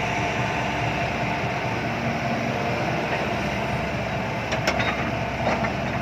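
Heavy diesel machinery running steadily, with a few sharp metallic clicks a little past the halfway point.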